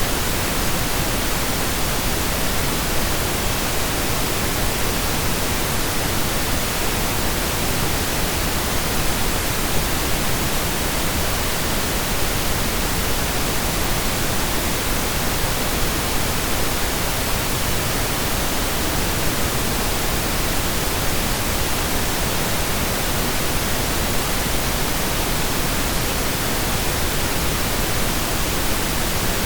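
Steady synthesized pink noise with no changes, a hiss spread evenly from the lows to the highs, like steady rain.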